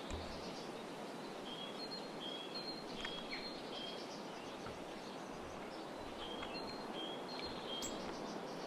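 Great tit singing its two-note 'tea-cher' song, a higher note then a lower one repeated several times, in two runs, over a steady background hiss.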